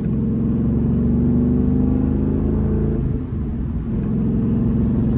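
2014 Mustang GT's 5.0 Coyote V8 running steadily while the car is driven, heard from inside the cabin, with a brief dip in level about three seconds in.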